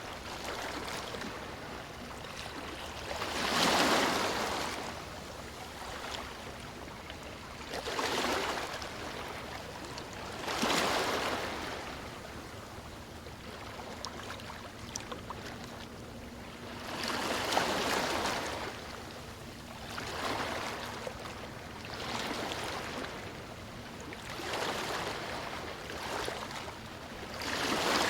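Sea waves breaking on a beach, the surf rising and falling in a surge every three to four seconds over a steady wash of water.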